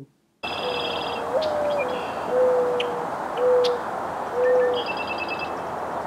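Mourning dove cooing: a soft drawn-out first note that slides up and back down, followed by three steady, even hoo notes. Another small bird's high trilling chirps come at the start and near the end, over steady outdoor hiss.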